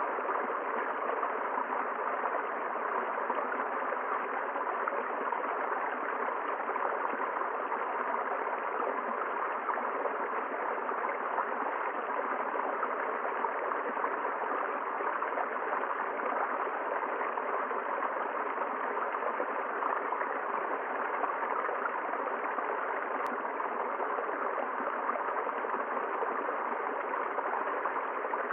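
A river flowing: a steady, even rush of running water with no change in level.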